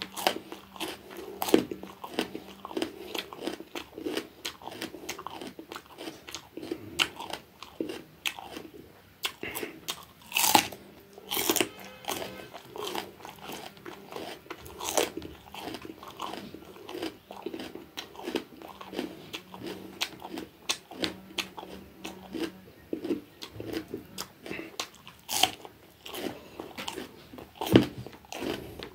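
Close-up chewing of raw bitter gourd: a steady run of wet, crisp crunches at an uneven pace, with several louder bites standing out.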